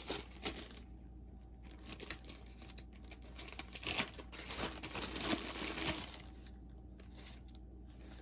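Close-up handling noise from hands working with small parts: crinkling rustles and small clicks and taps, busiest in the middle and quieter near the end.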